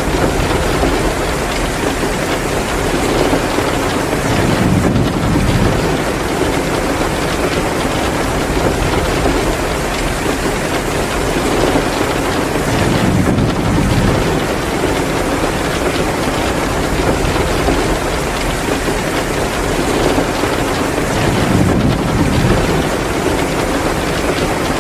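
Heavy rain pouring steadily, with a low rumble that swells three times, about eight seconds apart.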